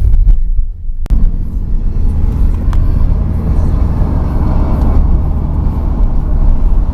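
A car driving, its engine and road noise making a steady low rumble, briefly dipping with a sharp click about a second in.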